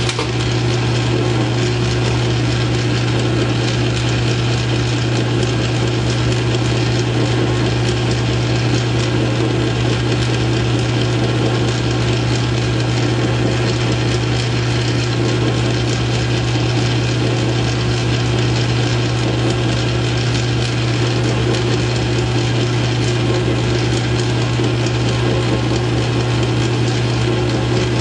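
South Bend 9-inch lathe running steadily under power, with a constant low hum from the motor and drive and an even noisy cutting sound above it, as a new steel pivot pin is turned.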